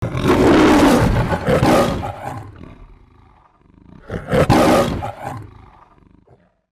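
Two loud roars: the first lasts about two seconds from the start, and the second comes about four seconds in and fades out.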